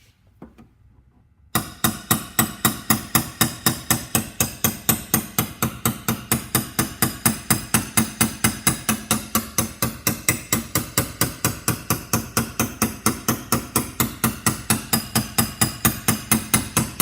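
A paintless dent repair slapper rapidly tapping a steel car door panel, about four even strikes a second, starting about a second and a half in. It is knocking down the crown (high metal) around a door dent.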